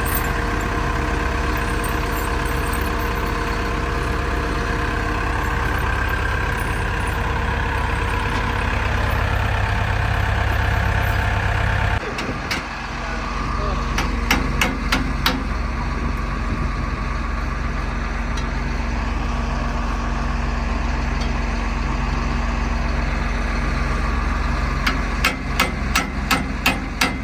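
Diesel engine idling steadily, its tone changing abruptly about halfway through. Over it come sharp metallic knocks, a quick run of about six a couple of seconds after the change and another run near the end.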